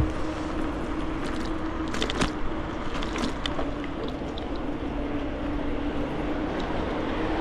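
Steady noise of road traffic heard while riding a bicycle along a busy road, with a low steady hum and a few light clicks a couple of seconds in.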